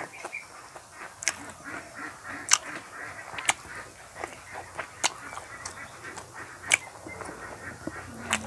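Close-up eating sounds: wet chewing and lip smacking on chicken, rice and curry, with sharp smacks about once a second.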